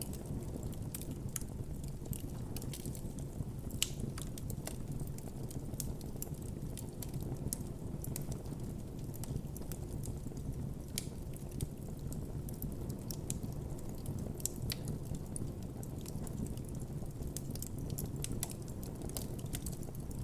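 Wood campfire burning, with frequent irregular crackles and sharp pops over a low steady rumble.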